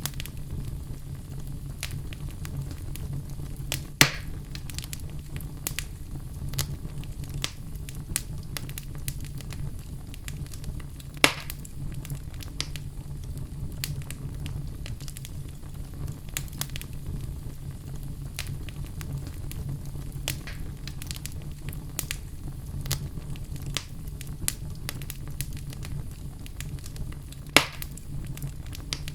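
Wood fire crackling in a fireplace: a steady low rumble of burning logs with frequent small snaps and three louder pops.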